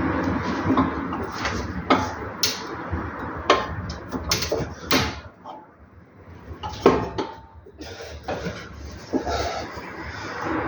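Hand tools knocking, clinking and scraping on metal suspension parts while an anti-roll bar end link is being swapped. The sharp knocks come irregularly, a couple of dozen in all, with a short lull a little past the middle.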